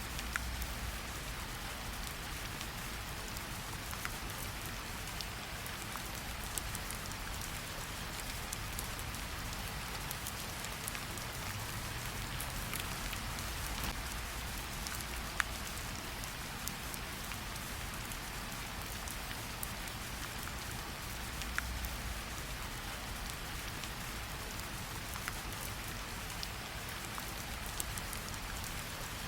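Gentle rain falling on tree leaves: a steady, even hiss with many small drops ticking, and a few louder single drips, one about halfway through.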